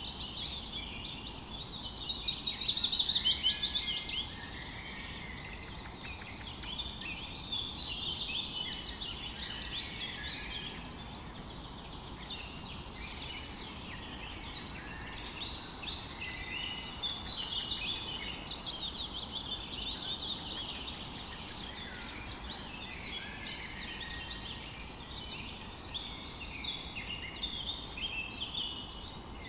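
A dawn chorus of several songbirds: many overlapping chirps, trills and whistles throughout, loudest about three seconds in and again around the middle, over a faint steady outdoor hiss.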